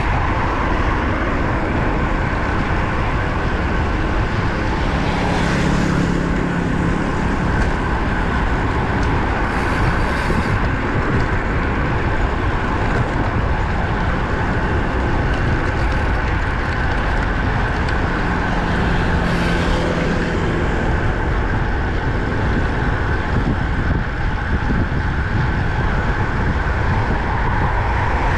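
Steady rush of wind over the microphone of a road bike moving at speed along a highway, mixed with road traffic noise. Vehicles pass about five seconds in, again near ten seconds, and once more near twenty seconds, each a brief rising and fading rush.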